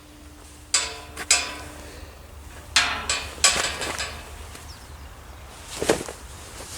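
Several sharp knocks with a brief metallic ring, in pairs about a second in and about three seconds in, then a softer thud near the end.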